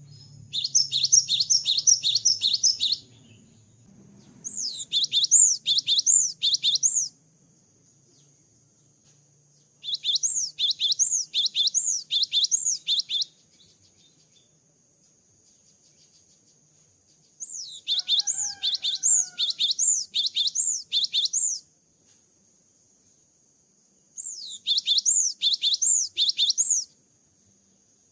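Cinereous tit (gelatik batu) singing: five bursts of rapidly repeated high, sweeping notes, about three notes a second, each burst lasting two to three seconds with pauses between. A faint steady high tone runs underneath.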